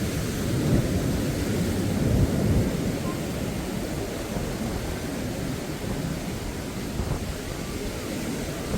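Wind buffeting the microphone: an uneven low rumble that swells about two seconds in.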